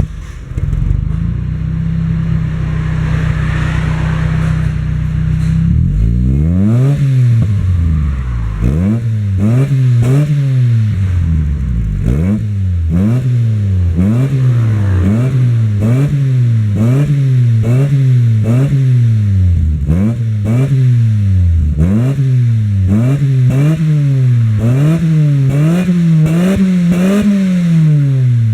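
Nissan NV 1600's 1.6-litre engine heard through a custom exhaust muffler. It idles steadily for about six seconds, then is revved in repeated quick blips, roughly one a second, each rising and falling in pitch.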